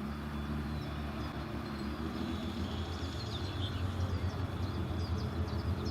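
Car engine running at low, steady revs, with birds chirping.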